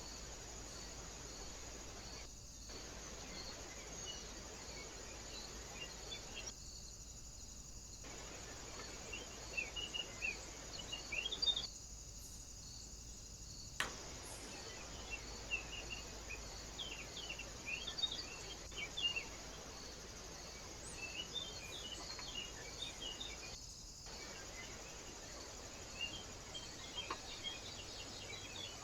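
Small birds giving short, scattered chirps and twitters, most of them in the second half, over a steady high insect drone with a faint regular pulse.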